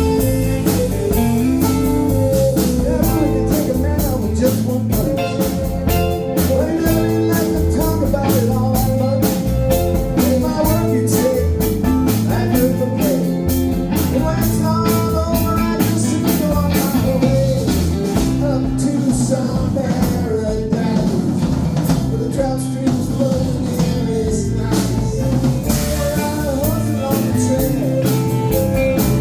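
Live band playing a blues-rock song: guitar and drum kit, with some singing, at a steady beat.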